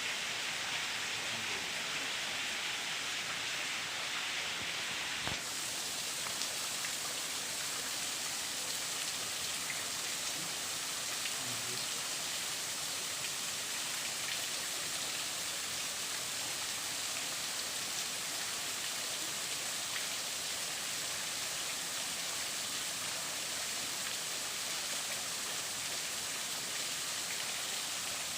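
Steady rushing of a waterfall, an even hiss of falling water. A brief click about five seconds in, after which the rush sounds brighter.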